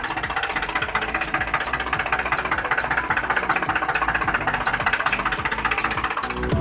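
Miniature diesel engine running steadily, with a rapid, even knocking beat.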